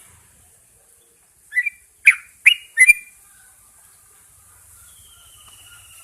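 Yellow-vented bulbul calling: four short, loud chirped notes in quick succession, starting about a second and a half in. A faint, thin falling whistle follows near the end.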